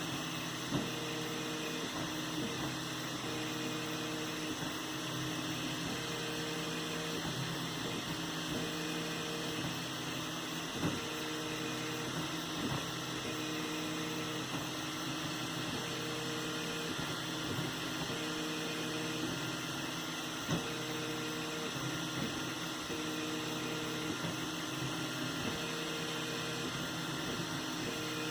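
3D printer running a print: the stepper motors hum in steady tones that shift and switch on and off every second or so as the head moves, with a few faint clicks.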